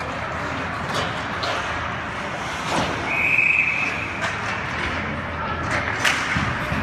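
A referee's whistle blown once, just under a second long, about three seconds in, over the hubbub of a game with a few sharp knocks of sticks or a ball against the boards.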